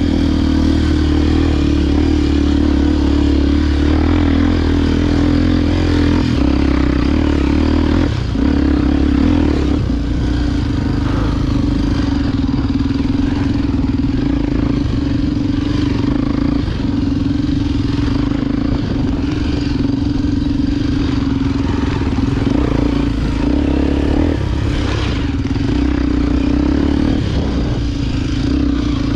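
Single-cylinder four-stroke engine of a Honda XR Tornado 293 enduro motorcycle running steadily while riding off-road. Its pitch dips briefly three times, at about 8, 16 and 24 seconds in, as the throttle eases, over rattling from the rough trail.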